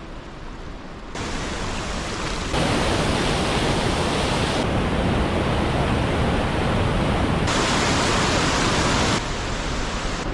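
Steady rushing noise, like running water or wind on the microphone, that changes abruptly in loudness and brightness several times, as at cuts between shots.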